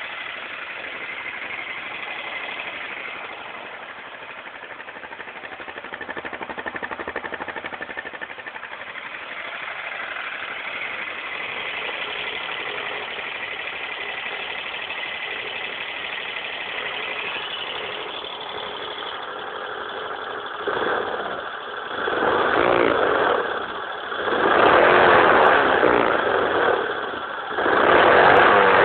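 Stels 700's Dinli engine idling steadily, then revved in four or five short blips over the last several seconds.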